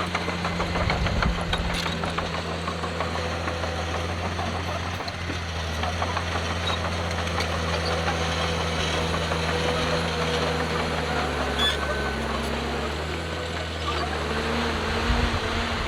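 Diesel engine of heavy earthmoving machinery running steadily, with scattered metallic clanks; the engine's pitch drops and rises again about three-quarters of the way through.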